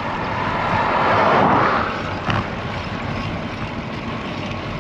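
Rushing wind and road noise heard while riding a road bicycle. It swells to its loudest about a second in, then eases back to a steady rush.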